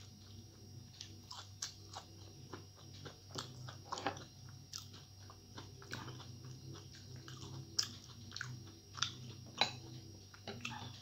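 Close-miked chewing and mouth clicks of a person eating a rice meal by hand, with a few sharper clicks and taps scattered through.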